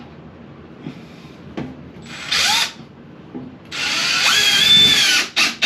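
Cordless drill driving a screw into the fan housing: a short burst, then a longer run of about a second and a half with the motor whine bending in pitch under load, then two quick pulses of the trigger near the end as the screw seats.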